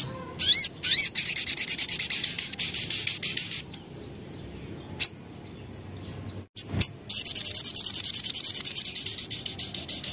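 Sogok ontong (ruby-cheeked sunbird) in breeding condition singing. It gives a few short gliding whistles, then a long, very rapid, high trill of about three seconds, a couple of single sharp chips, and a second long rapid trill near the end.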